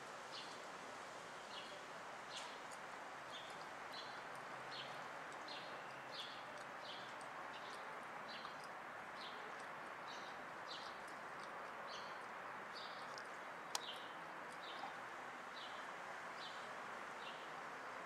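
A small bird chirping over and over: short, high chirps, a little over one a second, on a steady background hiss. A single sharp click sounds about three-quarters of the way through.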